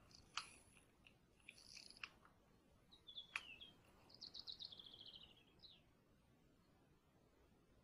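Faint forest birdsong: scattered high chirps and one quick trill that falls in pitch about four seconds in. Three short sharp knocks, the loudest sounds here, come at about half a second, two seconds and three and a half seconds.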